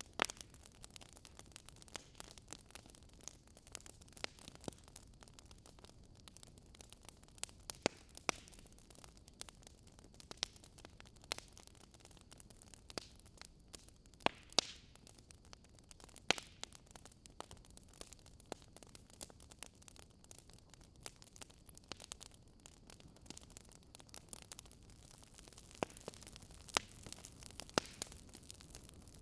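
Fire crackling: irregular sharp pops and snaps, a few louder than the rest, over a faint steady hiss.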